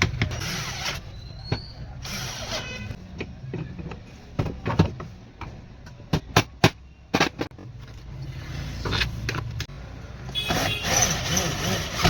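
Sharp clicks and knocks of tools and metal parts being handled during a power-tool repair, with a few short stretches of scraping, over a steady low hum.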